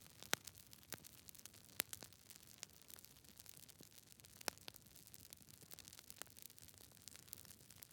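Campfire burning quietly, crackling with irregular sharp pops and snaps over a soft hiss, a few pops standing out louder than the rest.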